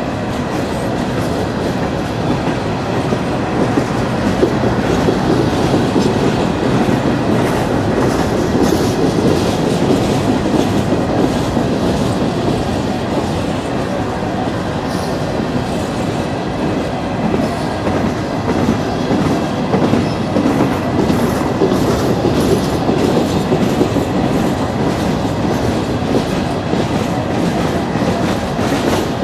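Coal hopper cars of a freight train rolling past: a steady rumble of steel wheels on rail with a continuous clickety-clack of wheels passing over the rail joints.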